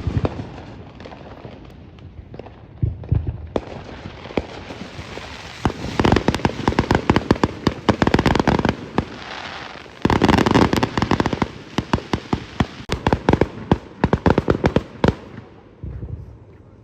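Fireworks going off: a string of sharp pops that thickens into dense, rapid crackling runs, heaviest from about six to nine seconds and from ten to fifteen seconds in, then stopping.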